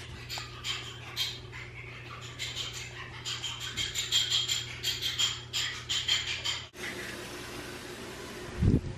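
Birds chirping in quick, high, repeated notes over a low steady hum. About two-thirds of the way in the sound cuts to an even hiss, and near the end there is a single loud low thump.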